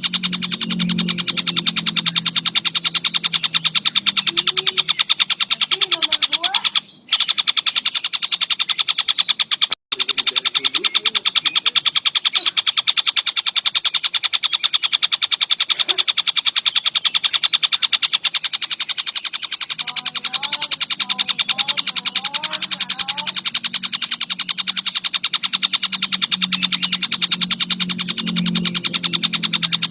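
Tengkek buto kingfisher calling in a fast, unbroken, high-pitched rattling trill, cut twice briefly early on. A low steady hum and a few fainter chirps lie beneath it.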